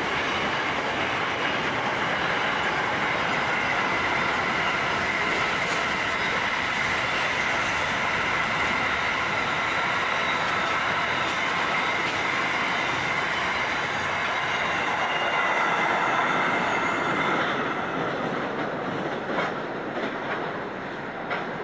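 Wagons of a long mixed freight train rolling past on steel rails: a steady rolling noise with a high, steady ringing from the wheels. It eases in the last few seconds, where a few clacks of wheels over rail joints stand out.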